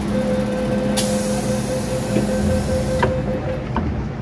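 MTR M-Train electric multiple unit running, with a steady two-pitched hum. A loud hiss starts abruptly about a second in and cuts off sharply two seconds later, followed by a couple of faint clicks.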